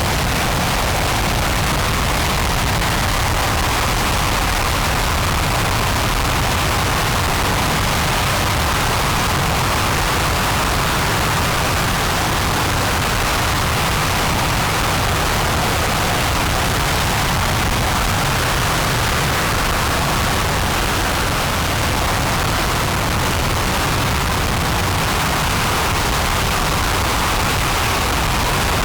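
RS-25 liquid-fuelled rocket engine firing on a test stand: a loud, unbroken roar that holds steady without change.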